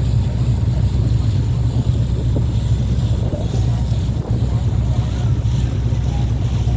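Engine of a passenger boat running steadily under way: a constant deep drone, with water rushing past and wind buffeting the microphone.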